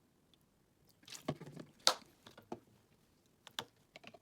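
Kitchen handling sounds while sauce ingredients are measured out: a brief scrape about a second in, a sharp click just before two seconds, then several lighter clicks and taps of utensils and containers.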